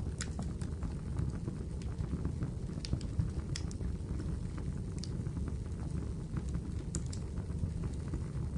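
Wood fire crackling in a fireplace: a steady low rumble of burning with irregular sharp pops and snaps.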